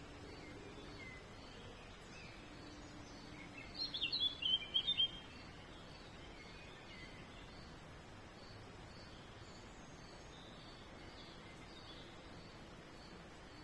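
A small songbird sings a short, quick burst of chirps about four seconds in. Fainter bird calls sound on and off over steady outdoor background noise.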